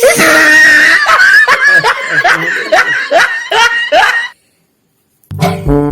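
Laughter in quick, repeated rising bursts for about four seconds, then it stops. A short, low honk comes just before the end.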